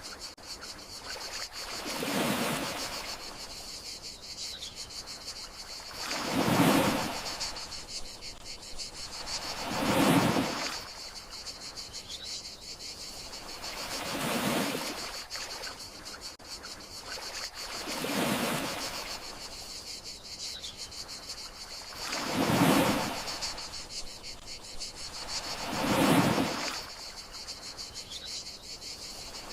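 Gentle sea waves washing in and out, about seven swells each rising and falling over a second or two, over a steady high trilling of crickets. A faint short falling chirp from a distant bird recurs about every eight seconds.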